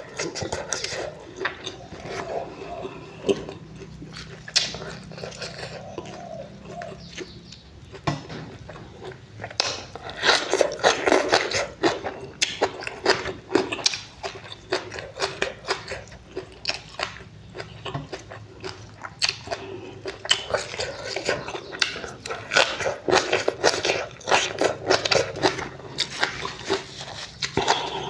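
Close-miked chewing and lip-smacking of a person eating mouthfuls of sea fish roe in a wet fermented-fish seafood dipping sauce. The mouth clicks and smacks are quick and irregular, growing busier about a third of the way in.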